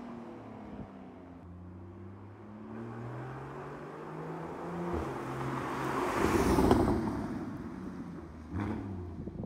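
Porsche 981 Cayman's flat-six engine through a SOUL Performance valved exhaust, its note sliding down and then climbing again as the revs change. The loudest part is a rushing surge about six to seven seconds in, and the engine tone returns near the end.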